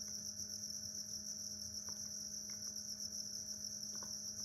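Crickets chirring in a steady, unbroken high trill, with a faint steady low hum underneath.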